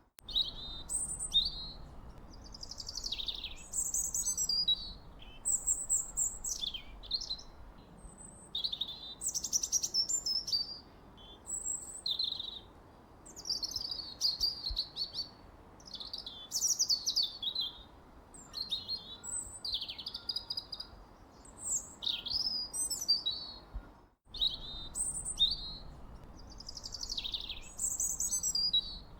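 Birdsong: a continuous run of short, varied chirping and warbling phrases, one after another, over a faint low background hiss. The sound drops out for an instant about 24 seconds in.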